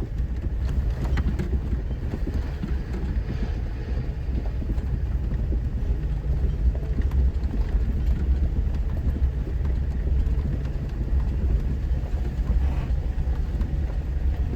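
Off-road 4x4 driving slowly on a rough, rocky trail: a steady low engine and drivetrain rumble with scattered knocks and rattles.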